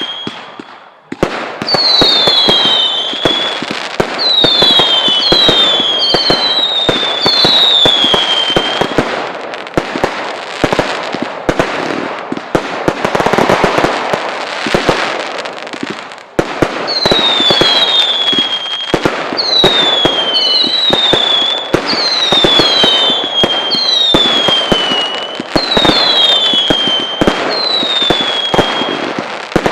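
Fireworks display going off: a dense run of bangs and crackling, with many short whistling fireworks, each whistle falling in pitch, firing in two volleys.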